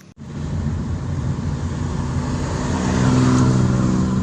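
A motor vehicle's engine running steadily, swelling louder about three seconds in.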